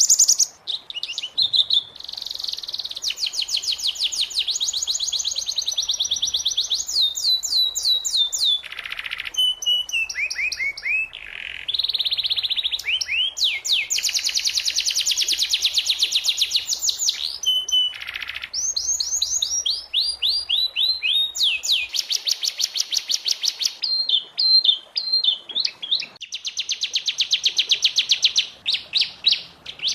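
Domestic canary singing a long, continuous song of rapid trills and rolls: fast runs of repeated notes, some sweeping up or down in pitch, broken by brief pauses.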